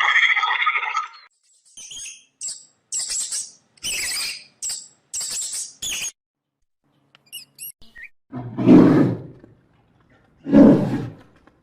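A run of short, high, hissing calls from an animal, then two loud, low roars from a large animal about two seconds apart.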